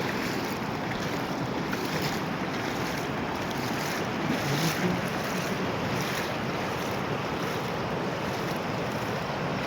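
Steady rush of water pouring over the edge of an overflowing lake after heavy rain.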